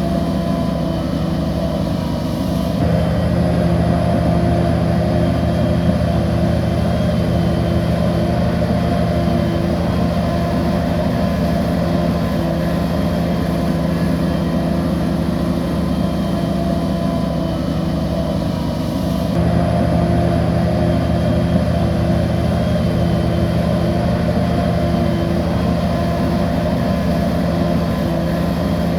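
Bulldozer's diesel engine running steadily under load, with its sound changing abruptly about 3 seconds in and again about 19 seconds in.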